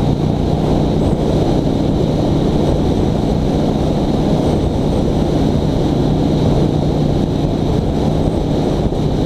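Honda Shadow V-twin motorcycle engine running steadily at cruising speed, with a low steady hum under heavy wind noise on the microphone.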